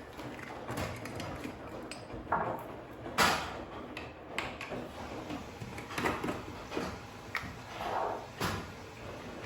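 Household handling sounds in a kitchen: a string of short clicks, knocks and brief scrapes, like drawers, doors and utensils being moved. The loudest knock comes a little over three seconds in, and another comes near the end.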